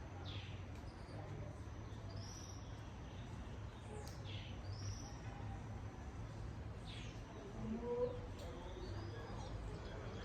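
Birds calling: short high arched notes repeated every couple of seconds, with a few downward-sliding calls, over a steady background hiss and low hum.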